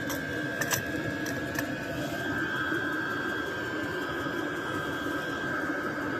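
Steady mechanical hum with a constant high whine, and a few small clicks in the first couple of seconds.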